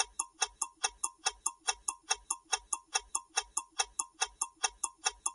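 Quiz countdown timer ticking: an even clock-like tick about three times a second.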